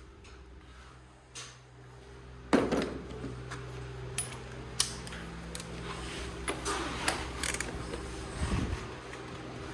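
Hand tools and metal parts being handled: a sharp clunk about two and a half seconds in, then scattered metal clicks and taps over a steady low hum.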